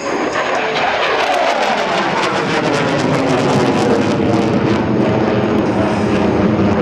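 F-15E Strike Eagle's twin Pratt & Whitney F100 turbofan engines at high power as the jet passes close by: a loud rushing jet roar with a ragged crackle, its pitch sliding down over the first few seconds as it goes past.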